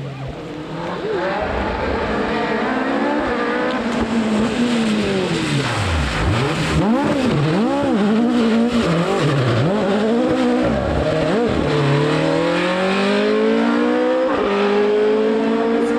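Rally car engine revving hard, the revs swinging sharply up and down several times, then climbing steadily through a gear change near the end.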